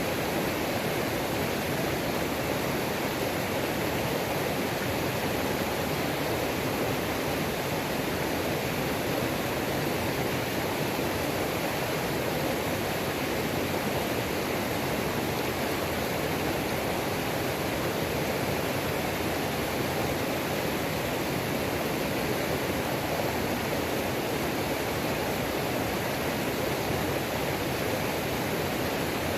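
Waterfall on a mountain creek: a steady, even rush of falling and tumbling water.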